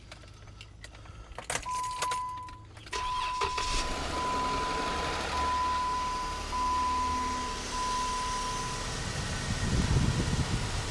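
2013 Jeep Wrangler JK's 3.6-litre V6 being started about three seconds in, on its first run after a water pump replacement, and then idling. A single-pitch warning chime beeps repeatedly from just before the start until about nine seconds in. The engine noise grows louder near the end.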